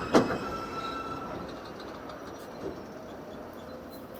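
New York subway R160 J train running, heard from a played-back video clip, its noise slowly dying away. A sharp click comes just after the start, with a brief faint squeal-like tone in the first second.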